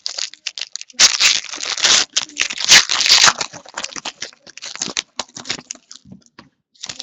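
Plastic wrapping on trading card packs crinkling and tearing, with cards and packs rattling as they are handled. The loudest burst of crinkling comes about a second in and lasts about two seconds, then thins to scattered rustles and clicks.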